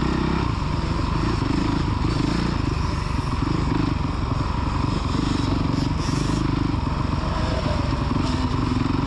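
A child's motocross dirt bike engine running steadily on the track.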